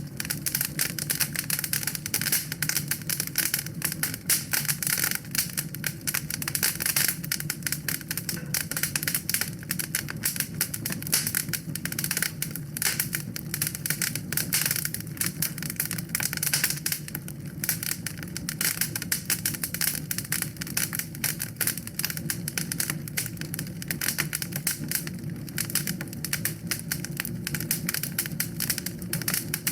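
Wood fire crackling in a fireplace: a dense, irregular patter of snaps and pops over a steady low rumble of flame.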